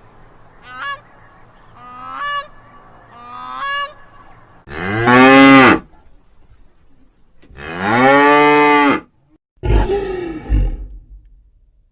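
A series of animal calls: three short calls rising in pitch in the first few seconds, then two long, loud calls that rise and fall in pitch, each lasting over a second, and a shorter rough call near the end.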